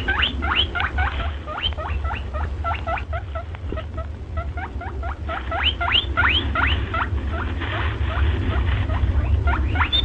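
Small birds chirping: many quick rising chirps overlapping, several a second, over a steady low rumble.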